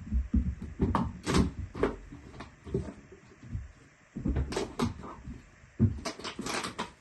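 Irregular knocks and thumps, a dozen or so, with quieter scuffling between them.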